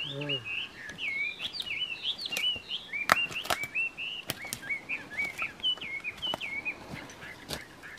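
A bird chirping a rapid, continuous series of short, bending high notes, with a few sharp clicks in the middle and near the end.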